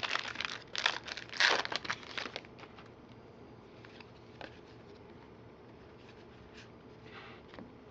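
A trading-card pack's wrapper crinkling and tearing as it is opened, with several loud crinkles in the first two and a half seconds. Then only faint clicks from the cards being handled.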